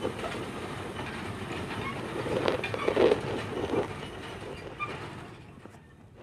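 Small-gauge backyard railroad train rolling slowly on its track, wheels clacking and knocking over the rails. The sound is loudest about halfway through, then fades away as the train comes to a stop.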